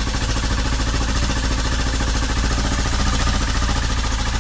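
Honda Cargo motorcycle's single-cylinder engine idling steadily with the rocker cover off. A rocker arm has just been oiled and the engine runs without its tapping noise, which the mechanic puts down to that rocker's roller not turning and not getting oil.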